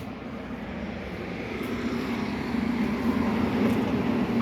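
A sharp click, then a steady engine-like drone with a low hum that grows gradually louder.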